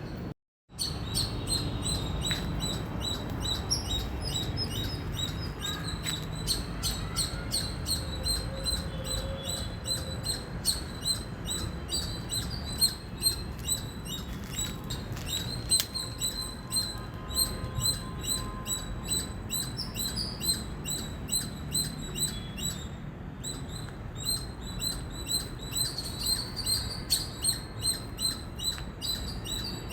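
Squirrel chirping: a long run of short, high-pitched chips repeated several times a second, with no let-up.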